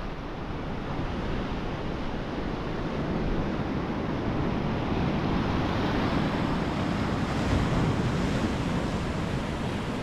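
Sea surf breaking and washing ashore, with wind blowing on the microphone; the wash grows a little louder after the middle.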